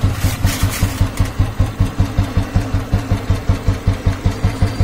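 Old-model Royal Enfield Bullet single-cylinder engine idling with an even thump, about six beats a second. It runs while its contact-breaker ignition timing is being set by ear.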